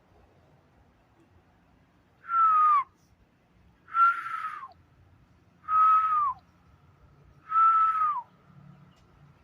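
A loud whistled note, held level and then sliding down at the end, repeated five times about two seconds apart.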